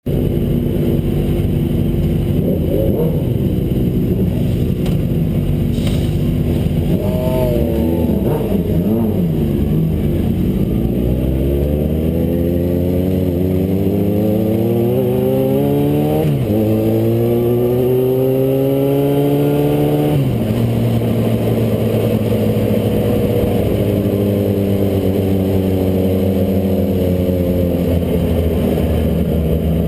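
Motorcycle engine running and revving. Its pitch wavers for a few seconds, then climbs slowly for about ten seconds with a brief dip partway, falls back sharply about twenty seconds in, and settles to a steadier note.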